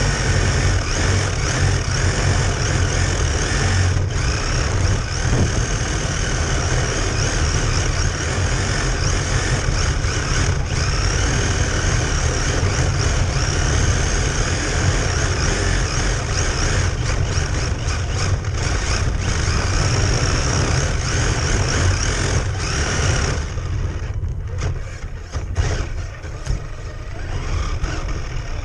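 Radio-controlled cars running on ice: a continuous wavering motor whine over a steady deep rumble. The higher sound drops away for a few seconds near the end.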